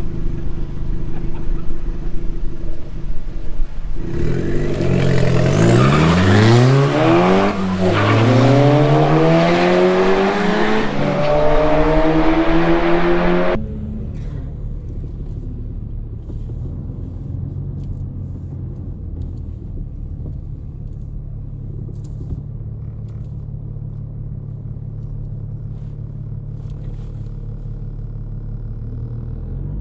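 Car engine idling, then revved up and down in two sweeps for several seconds before settling back to a steady idle.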